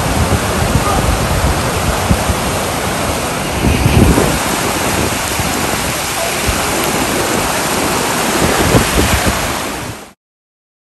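Steady rush of flowing water with wind buffeting the microphone; it cuts off abruptly near the end.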